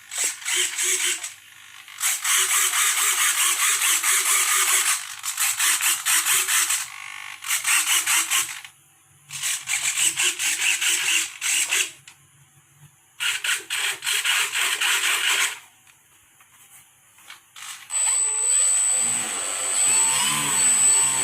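RC airplane servos whirring in a series of short bursts as the control surfaces are driven left, right, up and down in a radio test. About 18 seconds in, the electric motor starts and runs with a steady high whine, its lower tones rising and falling with the throttle.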